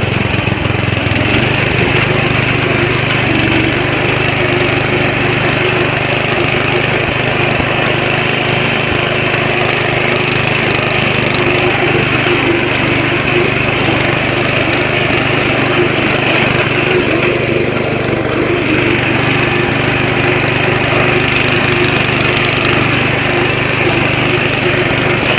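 Riding lawn mower's small engine running steadily at a constant speed as the mower is driven.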